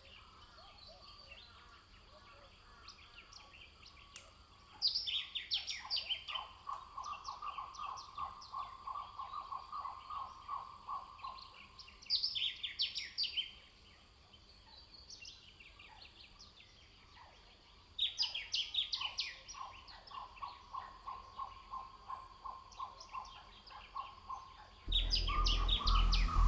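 Wild birds singing: three short bursts of quick, high, tumbling song several seconds apart, and between them a lower call repeated steadily, several notes a second for a few seconds at a time. Music comes in near the end.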